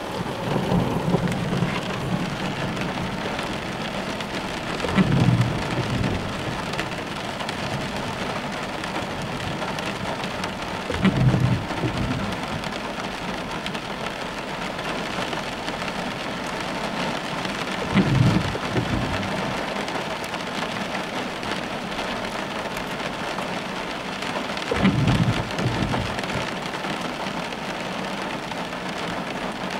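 Heavy rain falling on a car, heard from inside the cabin, a steady hiss of drops on roof and glass. Four short low rumbles stand out above it, roughly six to seven seconds apart.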